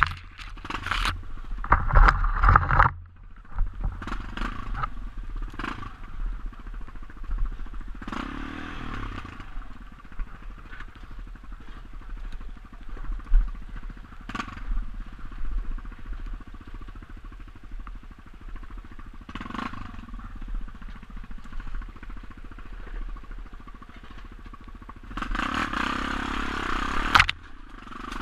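Off-road motorcycle engine running unevenly with irregular bursts of throttle, mixed with short knocks and scrapes. The loudest bursts come a couple of seconds in and again near the end.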